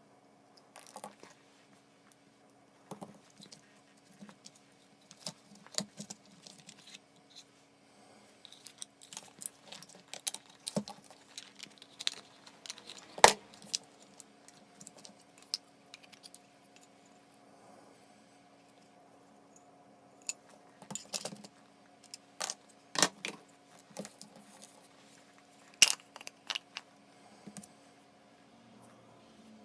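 Small metal parts and hand tools clicking and clinking as a Makita HR161D cordless hammer drill is worked on by hand at the bench, with a sharp knock about 13 seconds in and another near 26 seconds. A faint steady hum runs underneath.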